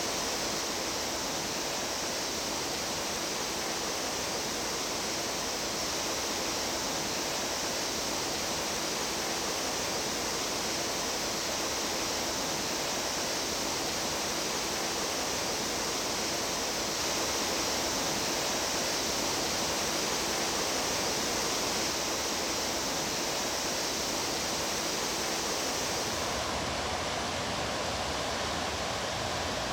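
Steady rush of a mountain stream flowing over rocks, with an even, unbroken hiss; near the end its tone shifts slightly as the water changes.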